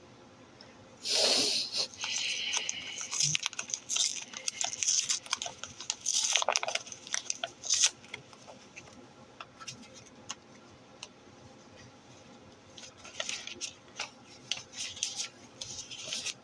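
Packaging being handled and torn open by hand, with irregular rustles and tearing bursts and scattered small clicks and taps. The loudest rustle comes about a second in, with another burst around six to eight seconds in.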